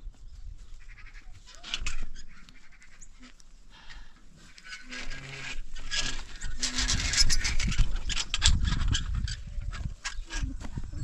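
Goats calling a few times with short bleats, then a busier stretch of rustling and knocking.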